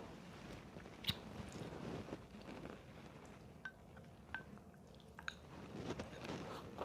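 A person chewing and eating food close to the microphone, with a few short clicks: one about a second in and a cluster in the middle.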